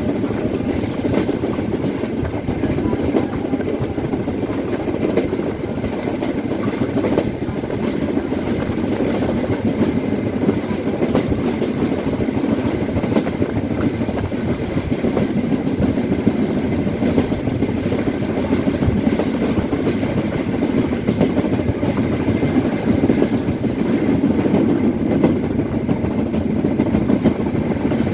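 Train in motion heard from on board: a steady rumble of the carriage running on the rails.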